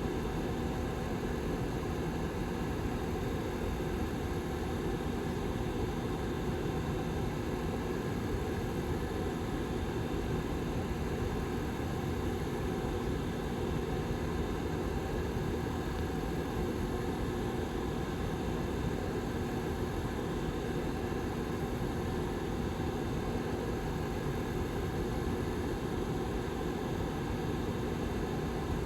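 Rear blower fan of a Lasko 755320 ceramic tower heater running steadily: an even whooshing rush of air with a constant low hum.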